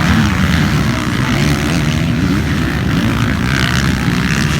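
Motocross motorcycle engines running on the track, a loud steady drone without a clear start or stop.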